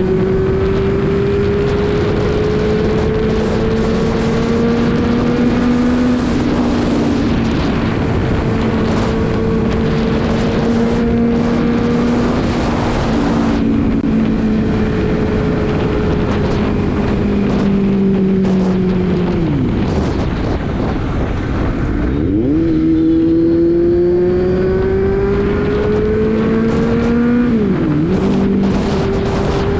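Kawasaki Z900's inline-four engine with a short slip-on exhaust can, running under way. The note climbs slowly in pitch, drops sharply about twenty seconds in, then climbs again, with a brief dip and recovery near the end.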